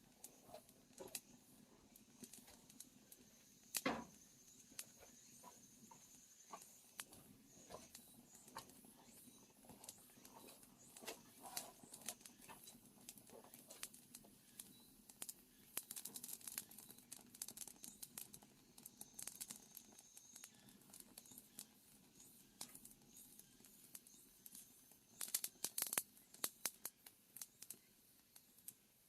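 Faint, sporadic crackles and snaps of a freshly lit wood fire catching in a firebox, with one sharper snap about four seconds in and a busier patch of crackling near the end.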